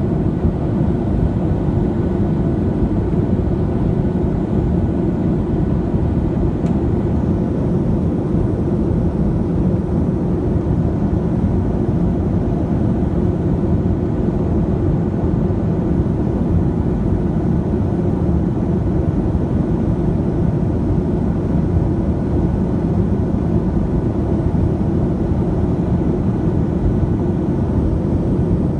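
Steady, low cabin drone of a Boeing 737-700 in flight, the engines and airflow heard from inside the passenger cabin.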